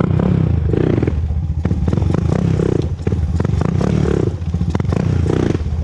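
Honda TRX400EX quad's single-cylinder four-stroke engine running under throttle during a tight low-speed turn, the throttle easing off and coming back on a few times.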